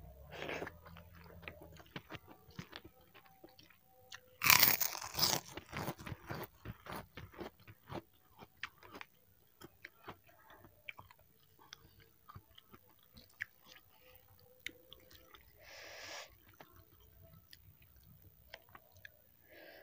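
Close-miked chewing of spicy instant noodles: a loud crunchy bite about four and a half seconds in, the loudest moment, followed by a long run of short wet chewing clicks.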